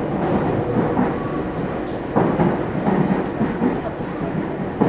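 Meitetsu 300 series electric train running between stations, heard from inside the car: a steady rumble of wheels on rail, with a knock from the track about two seconds in and another near the end.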